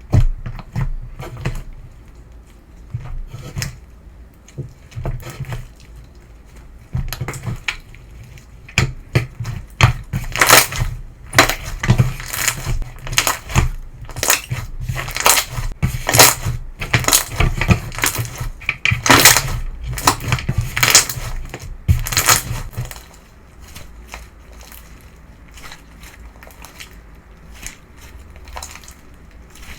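Semi-crunch petal slime being squeezed and pressed by hand, crackling and popping in quick, dense runs. It is busiest through the middle, then drops to faint, sparse crackles for the last several seconds.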